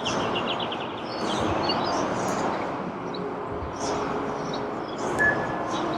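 Small birds chirping over a steady wash of outdoor background noise: a quick run of high chirps in the first second, scattered calls after, and two short whistled notes near the end.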